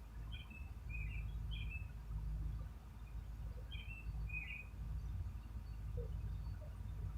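Small birds chirping in two short bursts of quick calls, one in the first two seconds and one about four seconds in, over a steady low rumble.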